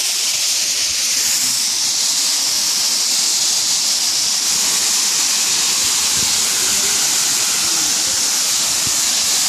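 Waterfall rushing, a loud steady hiss of falling water with no break.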